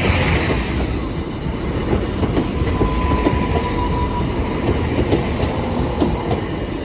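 A train passing at close range: a heavy rumble with the wheels clattering over the rail joints. Midway a thin steady whine sounds for about a second and a half.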